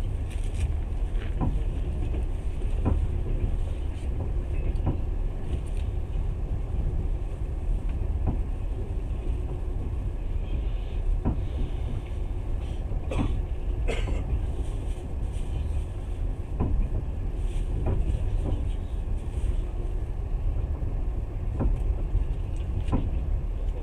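Passenger train running along the line: a steady low rumble of wheels on rails, with short knocks and clicks at irregular intervals.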